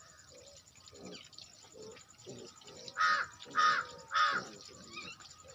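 A crow cawing three times in quick, evenly spaced succession about three seconds in, loud and harsh, over fainter low sounds.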